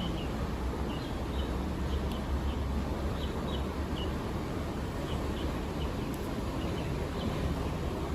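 Small birds chirping repeatedly in short high notes over a steady low outdoor rumble.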